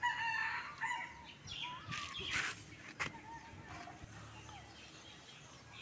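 Parrot calling, with a few short pitched calls in the first second or two, then quieter.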